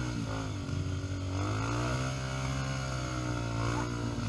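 Off-road trail motorcycle engine running, its pitch dipping and rising again several times as the throttle is eased off and opened.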